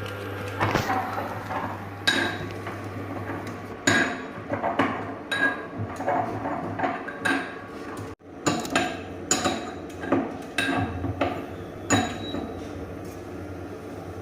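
A metal cooking utensil knocking and clinking against a pan in irregular sharp strikes as food is stirred, over a steady low hum.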